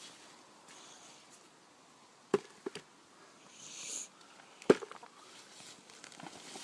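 Digging up a potato plant: a few sharp knocks of a garden tool striking the soil, the loudest near the end, with a short scraping rustle of earth in between.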